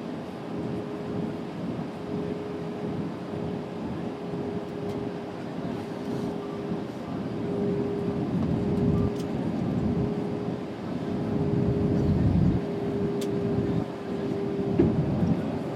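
Airbus A320neo passenger cabin noise on approach: a steady rush of airflow and engine rumble with a constant hum, swelling slightly in the second half. A single sharp tick sounds near the end.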